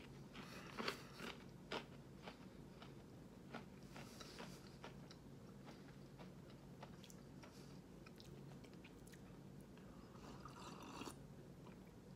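Faint chewing and crunching of a chocolate-covered, peanut butter-filled pretzel, with a cluster of sharp crunches in the first two seconds and scattered clicks after. A short rustle near the end.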